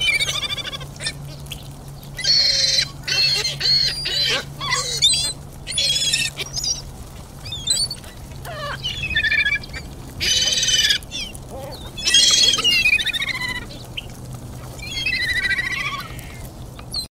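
Birds calling: about eight bursts of harsh, wavering high-pitched calls, each around a second long and a second or two apart, over a steady low hum.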